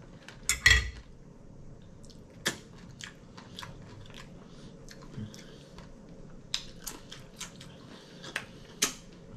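Close-miked chewing of a large mouthful of taco salad with tortilla chips: irregular crunches and wet mouth clicks, the loudest just under a second in.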